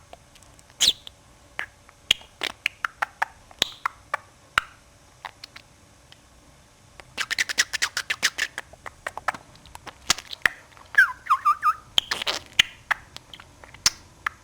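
Budgerigar chattering: scattered sharp clicks, a dense run of rapid clicking in the middle, then a short warble and a few high chirps near the end.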